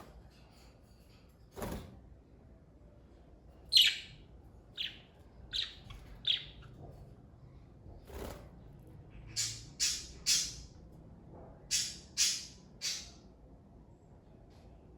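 Pet budgerigars chirping in short, high calls, several in quick runs of three, the first call about 4 s in being the loudest. Two sharp knocks are also heard, near the start and about halfway through.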